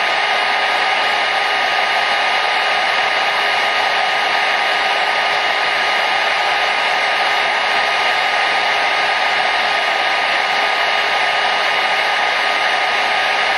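Hair dryer running steadily: an even, unbroken rush of air noise with a faint steady whine from its motor and fan.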